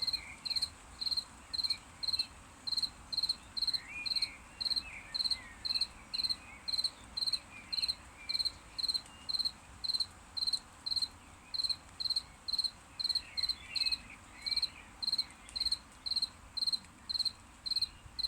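A cricket chirping in a steady, even rhythm: short, clear, high-pitched chirps at about two to three a second.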